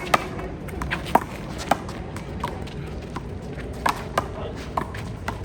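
A series of sharp smacks at uneven intervals: a rubber handball being struck by hand and slapping off the wall and pavement during a handball rally.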